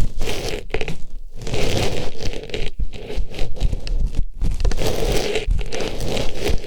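Artificial flower rubbed and pushed into a microphone's ear: close, loud rustling and scraping strokes with a crackly edge, broken by short pauses between strokes.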